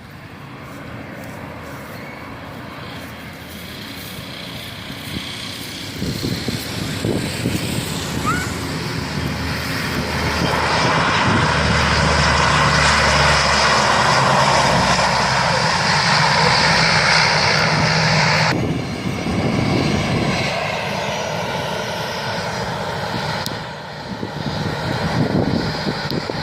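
Airplane engines during a landing, growing louder as the aircraft approaches and passes, with a steady hum under a wide rushing noise. About two-thirds of the way through the loudest part drops off sharply.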